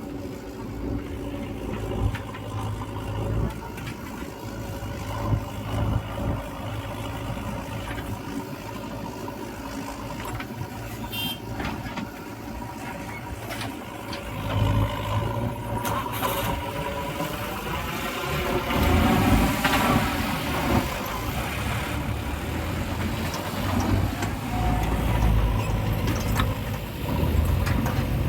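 Diesel engines of a JCB 3DX backhoe loader and farm tractors running, with the revs rising and falling as the machine works. The engine gets louder about halfway through.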